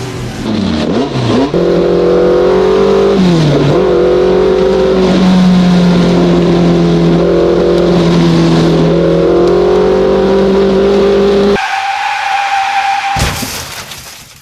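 Slot car electric motors whining steadily as the cars run the track, with the pitch dipping and recovering twice near the start as the throttle is eased and reapplied. Near the end the whine gives way abruptly to a higher single tone, then a short burst of noise.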